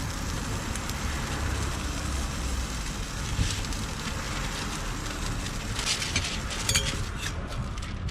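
Crepe batter sizzling on a hot crepe griddle over a steady low hum, with a few sharp clicks and scrapes about six to seven seconds in.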